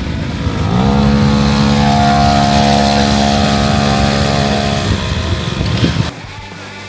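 Motorcycle engine rising in pitch about a second in, held at steady high revs for about four seconds, then dropping away.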